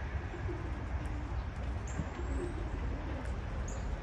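Pigeons cooing: a string of short, low coos over a steady low rumble.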